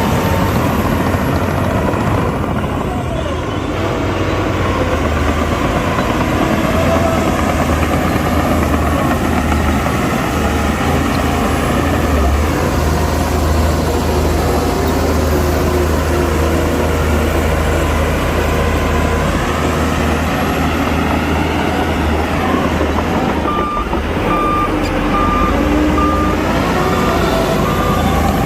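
Heavy diesel earthmoving machinery running steadily with a deep engine drone. In the last few seconds a reversing alarm beeps in an even pulse.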